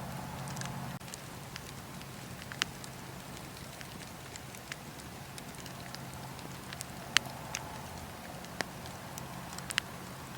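Wood fire in a fireplace crackling, with scattered sharp pops, the loudest about seven seconds in, over a low steady rumble.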